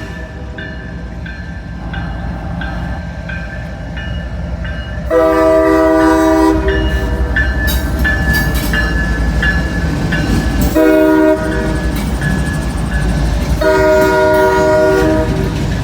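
Freight train's diesel locomotive horn blowing a long blast, a short one and another long one, over the low rumble of the passing train, with a bell dinging steadily. The horn sounds clogged up to the railfan listening.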